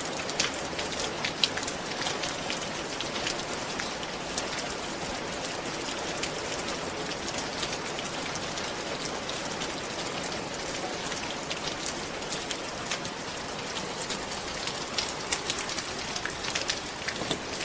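Steady rain falling on a roof, an even hiss with many individual drops ticking sharply on top.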